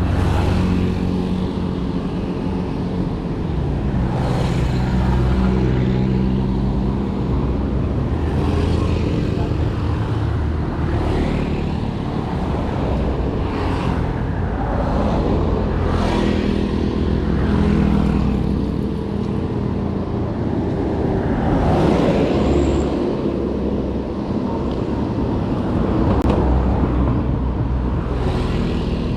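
Road traffic: motor vehicle engines running, with vehicles passing every few seconds.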